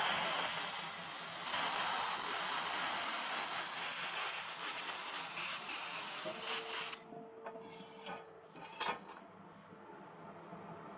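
Handheld 1 kW fiber laser welder running on metal: a steady hiss with a high whine that cuts off suddenly about seven seconds in. A brief low hum and a few clicks follow.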